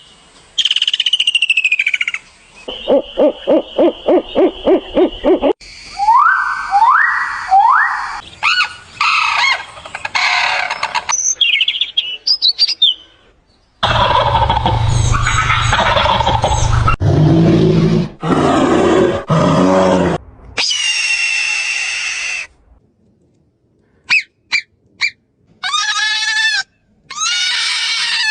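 A string of different bird and animal calls spliced one after another, each cut off abruptly: falling whistles, a rapid series of about four pulsed calls a second, rising chirps and harsher calls. There is a short gap of near silence about three quarters of the way through.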